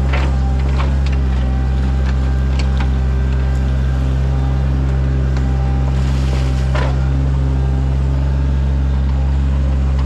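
Sany mini excavator's diesel engine running steadily under work, with scattered clicks and knocks from the machine working and a short rushing hiss about six to seven seconds in.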